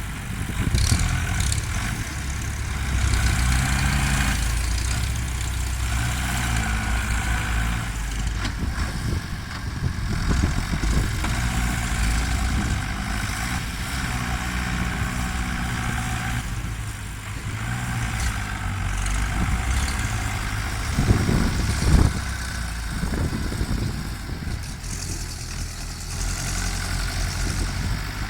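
Ford tractor engines working, the engine note rising and falling as they rev up and ease off under load. A couple of thumps about three-quarters of the way through are the loudest moment.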